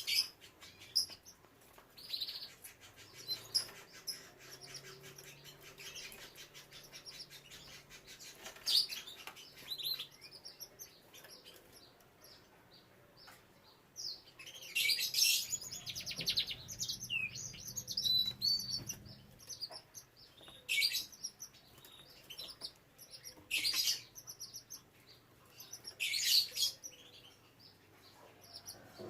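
Canaries chirping: short high calls every few seconds, with a longer run of rapid trilling notes about fifteen seconds in.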